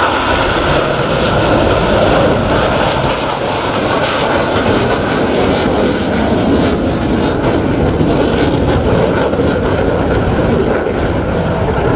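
Loud, steady jet noise from Blue Angels F/A-18 Super Hornet fighters in flight, with a fine crackle running through it.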